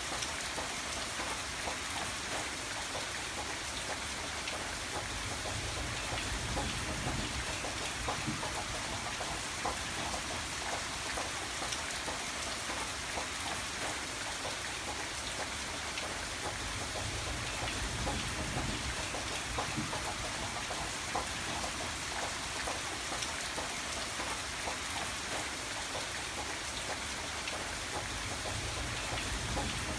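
Steady rain falling, a dense, even patter of drops, with a low rumble swelling a few times underneath.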